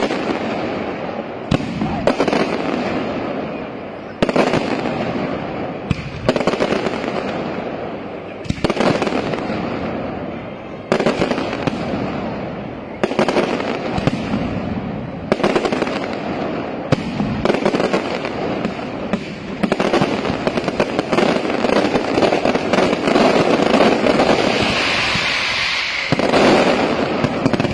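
Night-time mascletà fireworks: a sharp bang about every two seconds, each followed by a fading rush of crackle and hiss. The bangs crowd together in the last several seconds into a dense, continuous barrage.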